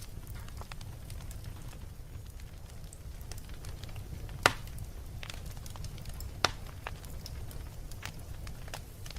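Wood fire burning in a fireplace, crackling with small scattered pops over a low steady rumble. Two louder, sharp pops about four and a half and six and a half seconds in.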